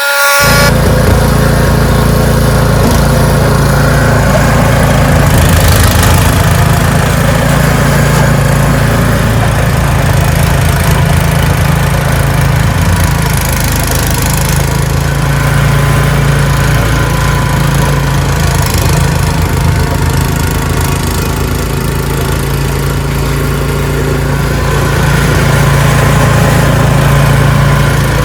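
Ariens 624E two-stage snowblower engine running steadily at working speed, its level swelling slightly now and then, with a few brief hissing rushes.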